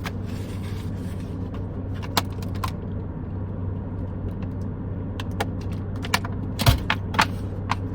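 Steady low hum inside a car cabin, with scattered small clicks and one louder knock about two-thirds of the way through.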